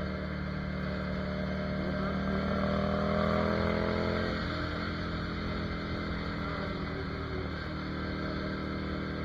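Ducati Monster 797's air-cooled L-twin engine running under way, its revs climbing for about two seconds, dropping sharply a little over four seconds in, then running steady.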